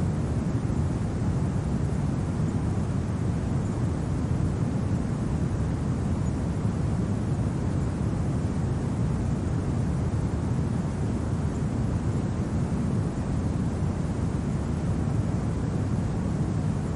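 Steady low rumbling wind, an even noise with no gusts, crackles or other distinct events.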